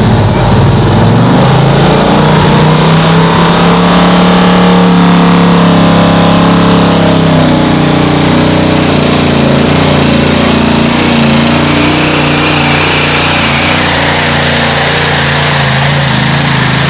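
Engine of a tractor-pulling tractor running loud and steady, its pitch shifting slightly. A high whistle rises about halfway through and then holds.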